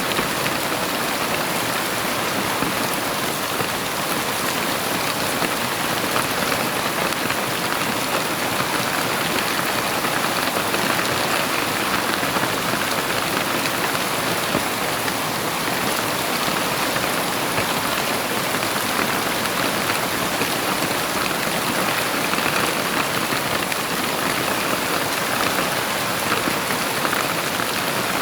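Heavy rain falling and pattering on surfaces, a dense steady hiss that keeps an even level throughout with no thunder.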